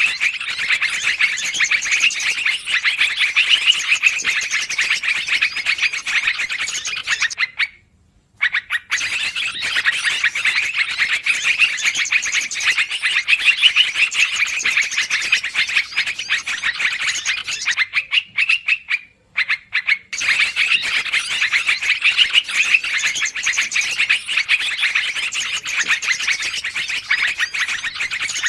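Bird-lure recording of yellow-vented bulbuls (trucukan) calling busily, a dense rapid chatter that goes almost without a break. It drops out briefly twice, about 8 and 19 seconds in.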